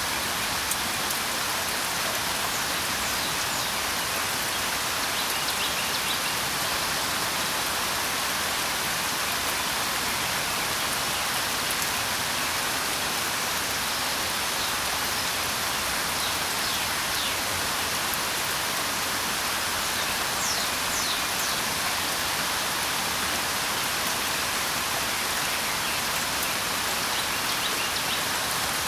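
Steady rain falling, an even hiss of drops, with a few faint high bird chirps now and then.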